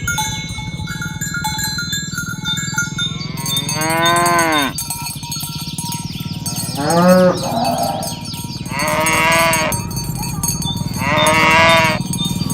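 Cattle mooing with cowbells clinking: the bells ring steadily at first, then about four long moos follow one after another, each sliding down in pitch.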